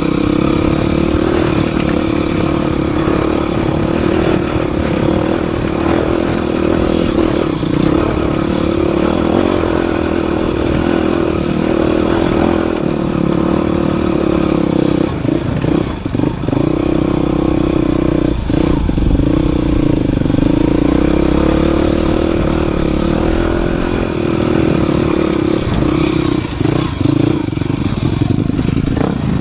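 Dirt bike engine running steadily while riding, its note holding fairly even, with a few brief dips about halfway through.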